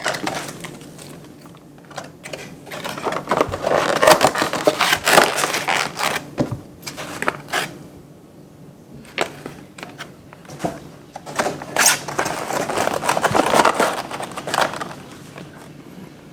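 Packaging being handled during the unboxing of a die-cast model aircraft: crinkling and crackling with many sharp clicks. It comes in two louder spells with a quieter stretch in between.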